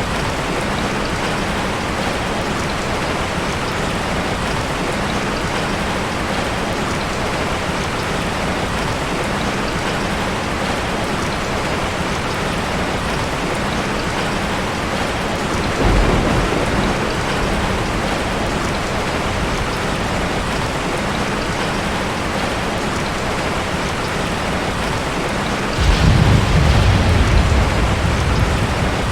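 Steady rain falling, with two rolls of thunder: a short one about halfway through and a longer, louder one near the end.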